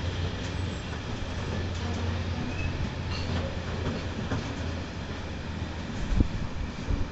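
Loaded open box wagons of a freight train rolling past, a steady rumble and clatter of wheels on the rails. Two sharp low thumps come near the end as the last wagon goes by.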